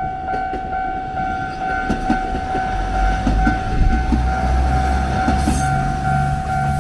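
Japanese level-crossing warning bell ringing in a steady, pulsing tone while a train passes over the crossing. The wheels knock over the rail joints and a low rumble swells in the middle and eases off near the end.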